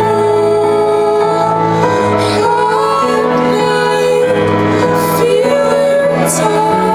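Live music: a woman singing a slow, gliding melody over sustained low chords.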